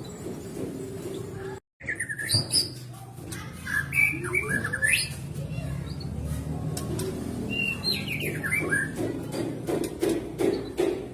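White-rumped shama (murai batu) singing: a varied string of whistled phrases with notes sliding up and down, cut off briefly just under two seconds in, and a run of quick repeated notes near the end.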